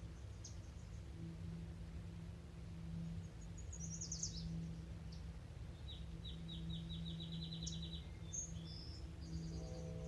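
Songbird singing: a quick falling run of high notes, then a long even trill, then a few short high notes near the end, over a steady low hum.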